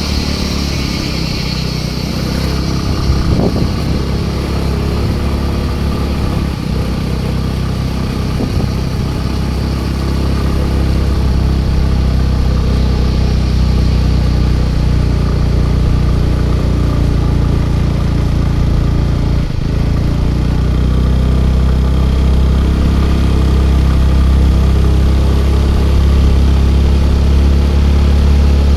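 Scooter engine running steadily under way, heard from the rider's position, with a steady low hum that grows a little louder about ten seconds in.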